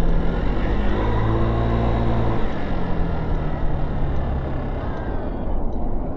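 Motorcycle engine running under steady road noise, its pitch shifting about two and a half seconds in.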